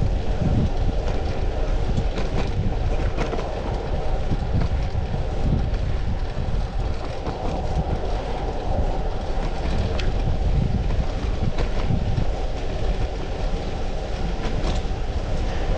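Steady wind rumble on the microphone and tyre noise while a fixed-gear bicycle is ridden, with a few faint clicks.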